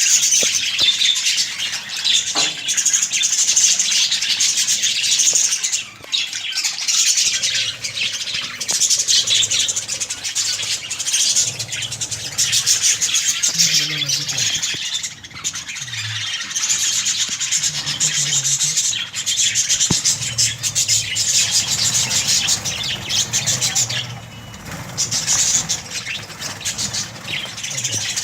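A colony of budgerigars chattering continuously, many birds calling over one another in quick, high chirps and warbles.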